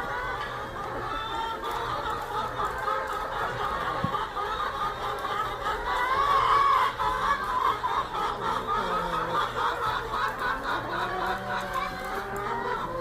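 A flock of laying hens clucking, with many short calls overlapping, loudest a little past halfway.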